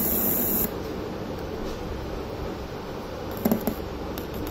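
Loud hiss of static from a home theatre amplifier channel's speaker output, cut off under a second in, leaving a low steady background hum; a short crackle about three and a half seconds in.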